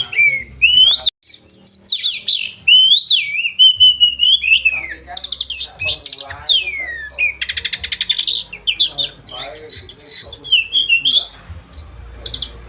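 Oriental magpie-robin (kacer) singing with sharp, varied sliding whistles. A rapid run of clipped, rattling notes comes about halfway through, then more whistled phrases that grow quieter near the end.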